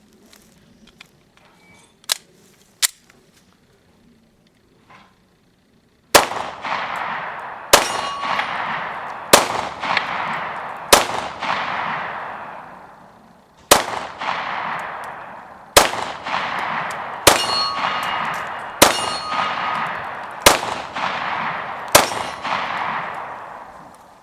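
FMK9C1 9mm pistol firing ten shots of 124-grain Hornady XTP hollow points, mostly about a second and a half apart with one longer pause midway, each shot followed by a long echoing decay. Two small clicks come a few seconds before the first shot.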